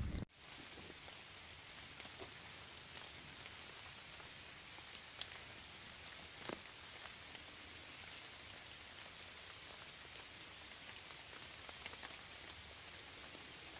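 Faint steady hiss with scattered light ticks and clicks, cut by a brief dropout just after the start.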